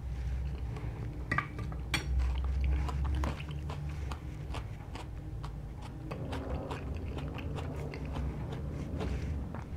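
Close-miked chewing of seafood linguine, with many small wet mouth clicks. A couple of sharp clinks about one and a half and two seconds in are a metal fork and spoon being set down on a ceramic plate. A low steady hum runs underneath.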